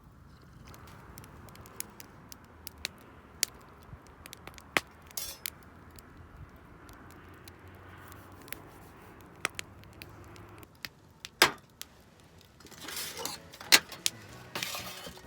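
Chopsticks clicking against a metal sierra cup while eating, in light irregular clinks. A louder clink comes about eleven seconds in, and there is a cluster of louder clattering near the end.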